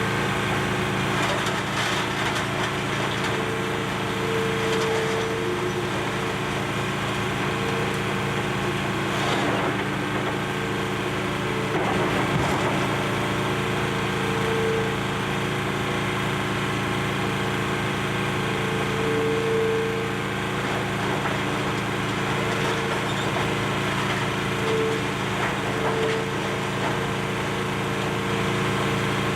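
Excavator's diesel engine running steadily, with a tone that swells and fades every few seconds as it works, and occasional cracking and crunching of demolition debris.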